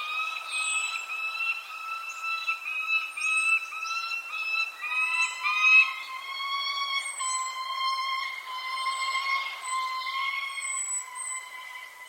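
Birds calling: short, high, falling chirps repeat over a steady, whistle-like tone that pulses at first and then drops a little in pitch about five seconds in.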